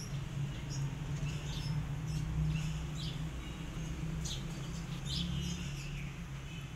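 Small birds chirping in short, high calls, several times, over a steady low hum.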